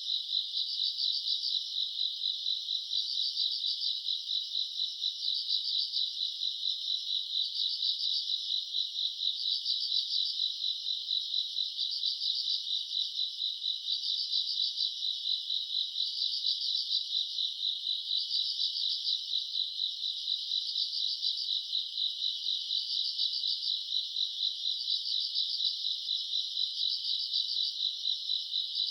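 Chorus of grass insects such as crickets: a steady high trill, with a louder pulsing chirp that repeats about every second and a half.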